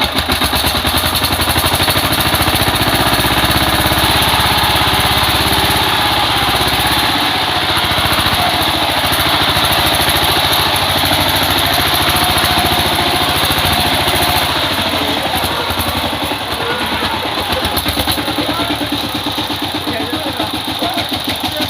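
Power tiller engine running loud and steady, working hard, and easing off a little about two-thirds of the way through.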